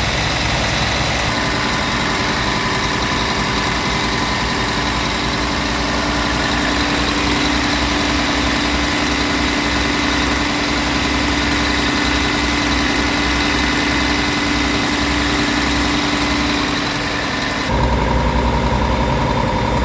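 Scania G-series tipper truck's diesel engine idling steadily. Near the end the sound changes abruptly, with the top end dropping away and a steady higher tone coming in.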